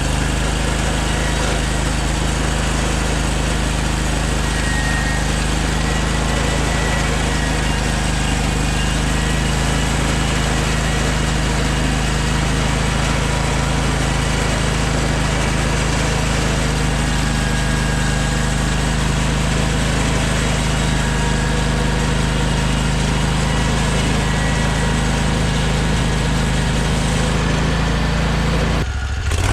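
An engine running steadily at a constant speed, cut off briefly just before the end.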